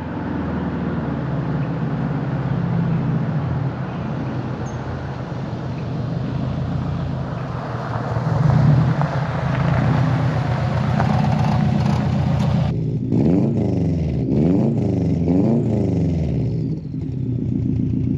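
Subaru WRX STI's turbocharged flat-four engine heard through a cheap aftermarket cat-back exhaust while driving, a steady drone for most of it. About 13 seconds in the revs rise and fall several times, then settle again.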